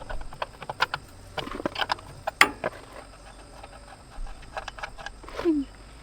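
Scattered sharp clinks and knocks of metal tools and parts being handled, some briefly ringing, with a short falling squeak near the end.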